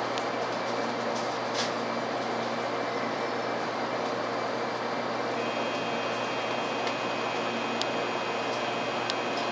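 Steady running noise of a Hikari Rail Star Shinkansen train, an even noise without pauses. A faint high steady tone joins about five seconds in, and there are a few small clicks.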